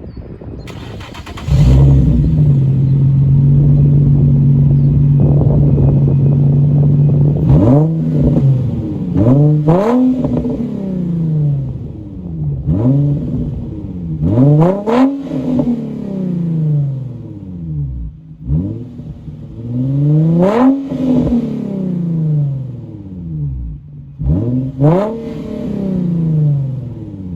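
2006 Infiniti G35's 3.5-litre V6 exhaust, run with the muffler deleted, revved in place. About a second and a half in, the engine is held at raised revs for about six seconds. Then it is blipped repeatedly, each rev rising sharply and falling back toward idle.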